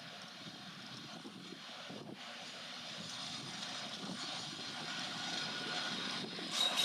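Distant rumble of an approaching train, growing steadily louder.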